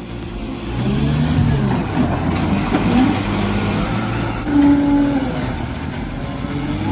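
Heavy diesel engines of trucks or recovery machines running under load, the pitch rising and falling as they rev, with one strong held tone about two-thirds of the way through.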